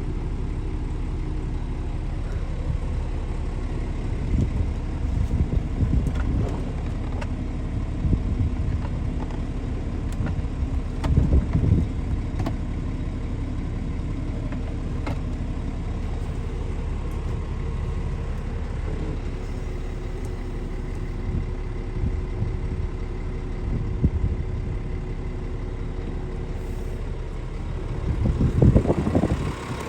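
Scania S500 truck's diesel engine idling steadily, with irregular louder low thumps now and then, the strongest near the end.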